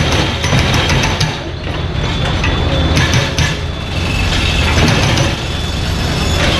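Mini excavator's diesel engine running steadily, with knocks and scraping from the machine at work.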